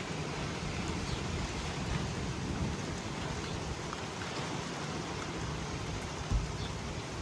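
Steady rain and wind noise in a severe thunderstorm, with one brief low thump about six seconds in.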